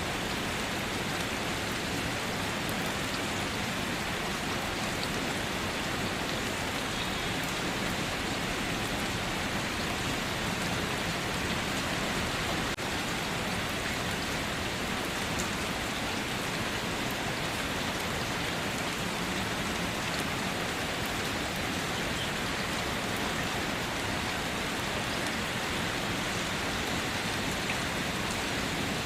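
Steady rainfall, an even hiss of rain with scattered individual drops landing on surfaces.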